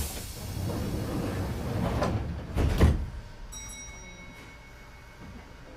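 Train passenger doors sliding shut, with a loud bang about three seconds in as they close. After that a steady high tone comes in.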